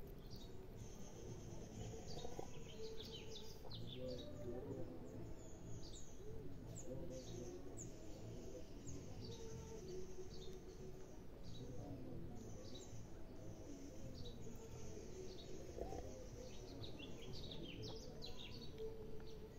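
Small birds chirping in the background, a steady run of short, quick, falling chirps, over a faint low murmur.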